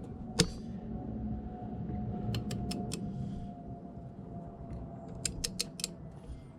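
Ratchet of a torque wrench clicking as it is worked back and forth, in short runs of four or five quick clicks, with one lone click about half a second in.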